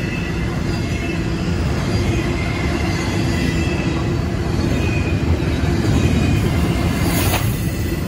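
Double-stack intermodal freight train rolling past at close range: a steady rumble of steel wheels on the rails, with a faint high wheel squeal that comes and goes. A short sharp clank sounds near the end.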